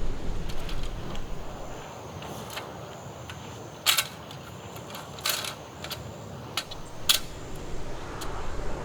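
A few sharp clicks and light knocks, as of small hard objects being handled, over a low wind rumble that eases after about two seconds.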